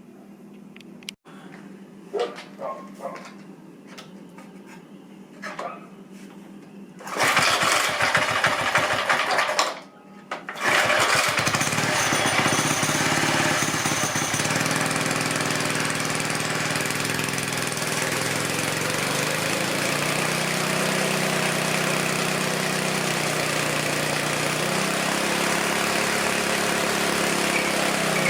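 Small Briggs & Stratton flathead single-cylinder engine on a vintage mini bike being pull-started: a few light knocks, then it fires about seven seconds in, drops out briefly near ten seconds, and catches again, running steadily with its speed wavering a little.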